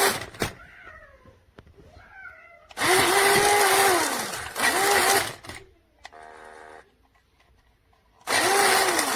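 Toy RC monster truck's small electric motor whirring in three bursts. Each burst rises in pitch, holds and falls again as the throttle is pressed and released. Twice between the bursts a short, quieter steady electronic tone sounds.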